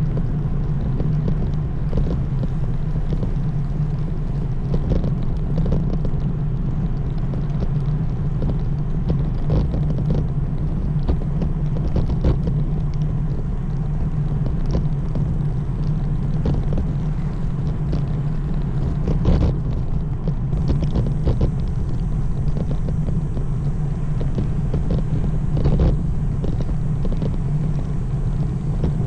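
Steady low rumble of wind and road noise picked up by a camera riding on a road bike, with occasional sharp knocks from bumps in the road.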